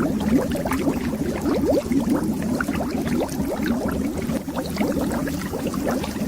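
Underwater bubbles: a dense, steady stream of short rising blips as bubbles form and rise through the water.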